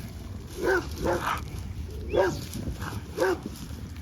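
A dog barking at a raccoon: about four short barks, roughly a second apart.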